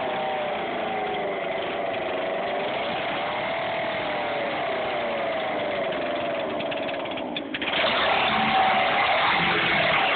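Peugeot 106 XS's four-cylinder TU engine fitted with four Weber carburettors, running at idle with a slightly wavering pitch; about seven and a half seconds in it dips briefly and then becomes louder and harsher. The loud noise comes from the carburettor intakes rather than the stock exhaust.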